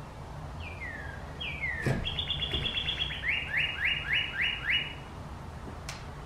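A songbird singing: two falling whistled notes, then a fast trill and a run of six quick repeated notes. A short knock sounds about two seconds in.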